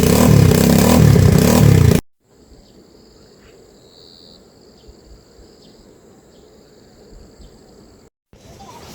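A motor vehicle's engine running loudly, cut off abruptly about two seconds in. Then insects drone steadily at a high pitch, with a few faint chirps.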